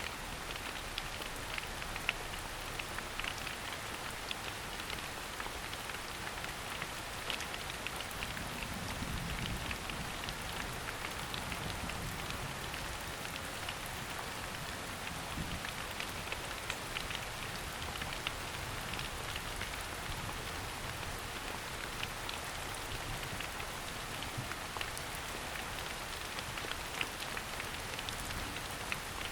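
Steady rain falling in a forest, with many separate drop ticks over an even hiss.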